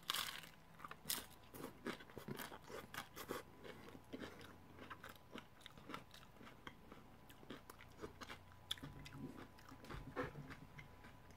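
A bite into a crispy fried tostada shell, with a loud crunch right at the start. Close-up crunchy chewing follows, dense at first and growing quieter and sparser.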